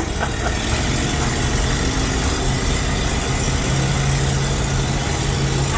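Ford 302 small-block V8 running steadily as the truck drives, with a low hum that grows louder about halfway through; the occupants think there is an exhaust leak.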